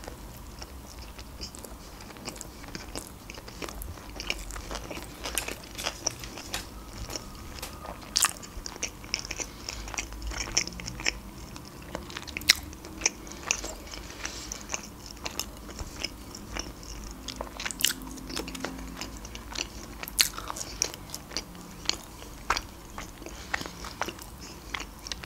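Close-up chewing of a salmon and cream-cheese sushi roll and then french fries, with many small sharp wet mouth clicks and smacks scattered throughout.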